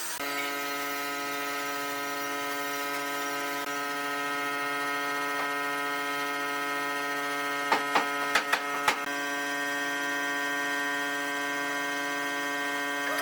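Steady electric buzzing hum, with a quick run of five sharp clicks or knocks about eight seconds in.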